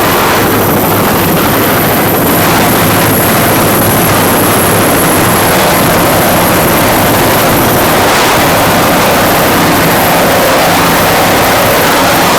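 Loud, steady engine noise with a rush of wind and water from offshore racing powerboats running flat out, led by the twin 650-horsepower homemade inboards of a 38-foot Cigarette deep-V.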